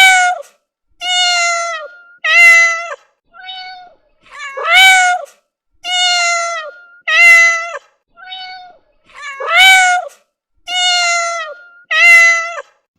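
Several cats meowing in turn, about one meow a second, mixing short flat meows, longer drawn-out ones and louder rising ones in a sequence that repeats.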